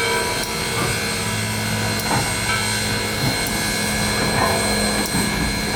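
A 1916 railroad turntable turning with the 1904 steam locomotive Southern 630 on it: a steady mechanical hum with rubbing, and a few soft knocks.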